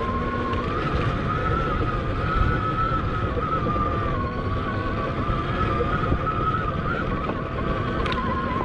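Admitjet Armor electric dirt bike's motor whining steadily as it is ridden, the pitch wavering slightly up and down with speed. Heavy wind noise on the helmet-camera microphone rumbles underneath.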